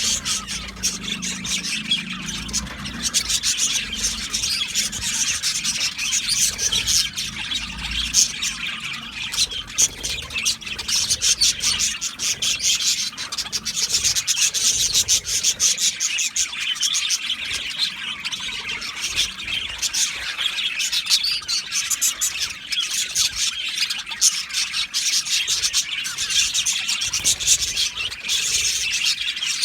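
A colony of budgerigars chattering and chirping together, many birds at once in a dense, continuous warble of short, scratchy calls.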